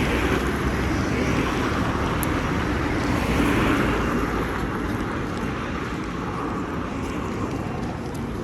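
Street traffic noise: a steady rumble of vehicles, swelling as one passes by about three and a half seconds in, then easing.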